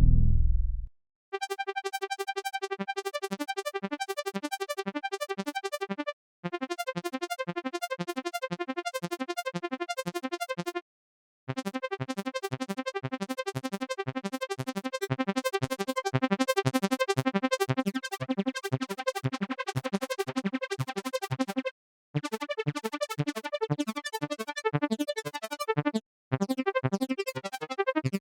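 BLEASS Monolit software synthesizer playing a fast, evenly pulsed sequence of short notes, in phrases broken by brief stops. A loud low boom fades out in the first second.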